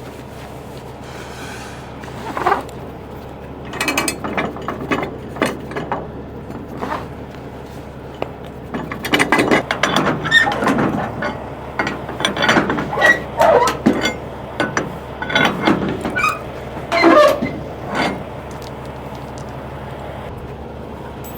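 Cargo tie-down ratchet being worked to tighten the load securement: irregular runs of ratcheting clicks, busiest in the middle, stopping a few seconds before the end, over a steady low hum.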